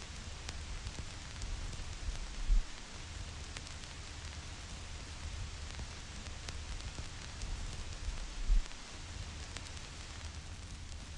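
Vinyl record surface noise: a steady hiss with scattered small clicks and pops from the stylus in the groove, over a low rumble. Two louder low thumps come about six seconds apart.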